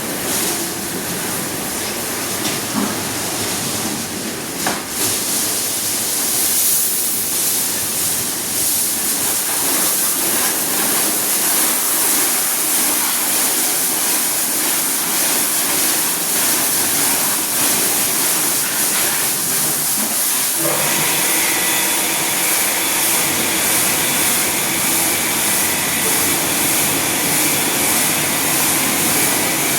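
Automatic car wash machine running: a steady hiss of water spraying onto the car. About two-thirds through, a steady machine whine joins the spray.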